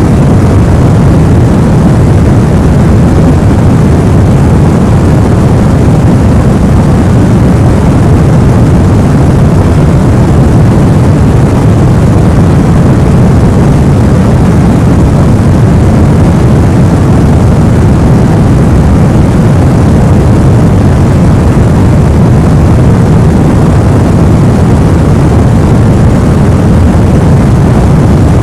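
Continuous sleep-noise track, an even, unbroken hiss weighted toward a deep low rumble, with no changes in level or pitch.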